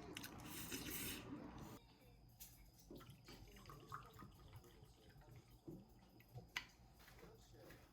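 Running water that cuts off suddenly about two seconds in, followed by quiet with faint scattered clicks and taps.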